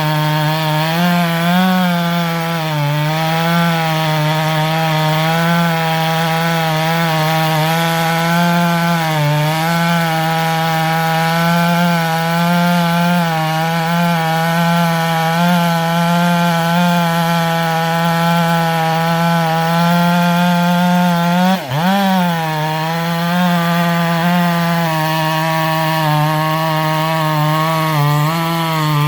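Husqvarna 564XP 62cc two-stroke chainsaw with a modified muffler, running at steady high revs under load as its 105 cm bar cuts through a large beech log. The pitch wavers a little with the load and dips sharply once, about three-quarters of the way through, before picking back up.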